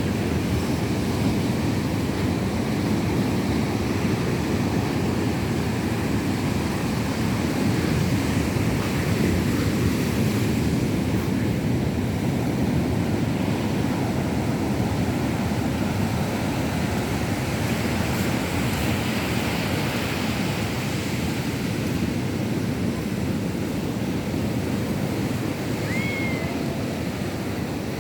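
Rough sea surf: waves breaking and washing up a beach as a steady, continuous rushing noise, heaviest in the low range.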